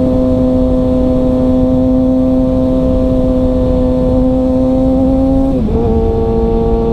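Sportbike engine running at a steady high pitch while cruising, over wind rush. About five and a half seconds in, the pitch steps down briefly and settles lower, as at an upshift or easing off the throttle.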